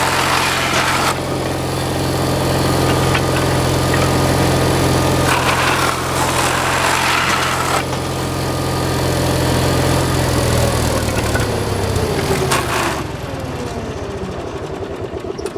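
Gasoline engine of a chop saw running, with two bursts of cutting into wood. About 12 seconds in it dies from running out of gas, and a falling whine follows as it winds down.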